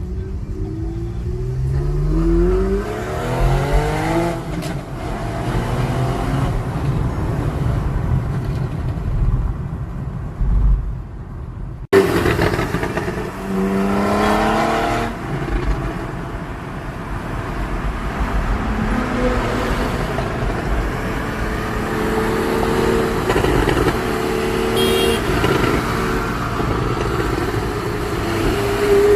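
Porsche 991.1 911 Carrera S's naturally aspirated 3.8-litre flat-six on its stock exhaust, accelerating with the revs climbing steeply. It cuts off abruptly about twelve seconds in, then climbs steeply again, and runs at a steadier note near the end.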